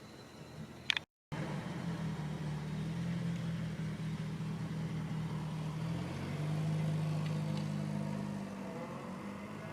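Car engine running steadily, its low hum shifting slightly in pitch about two-thirds of the way through. A short sharp click comes just before a brief cut about a second in.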